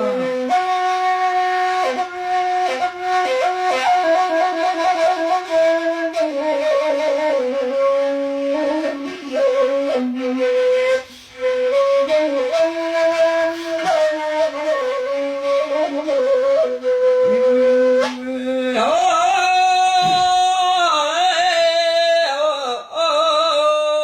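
Gasba, the end-blown reed flute of Bedouin folk music, playing a solo melody full of quick trills and ornaments between sung verses. The tone turns brighter near the end.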